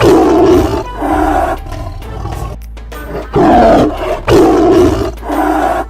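Cartoon wild-animal roar sound effects, about five roars in two groups of two or three, over background music.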